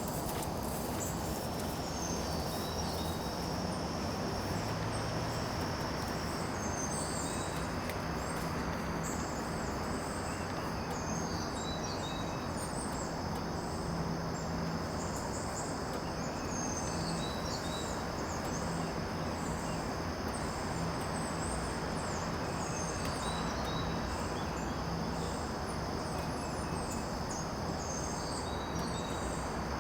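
Garden ambience: insects keep up a steady high drone, and small birds chirp briefly every few seconds over a constant low background hiss.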